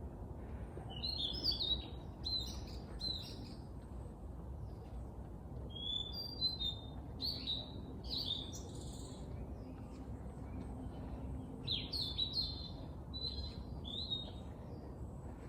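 Songbirds singing: phrases of high chirps and warbled notes in three bouts, over a steady low background rumble.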